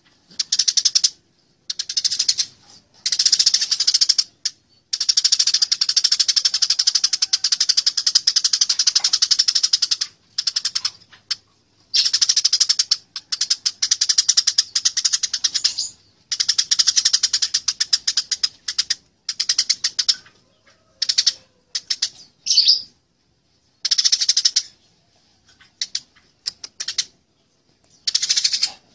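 Eurasian tree sparrows fighting: rapid, harsh chirping in dense bursts of one to several seconds, broken by short pauses.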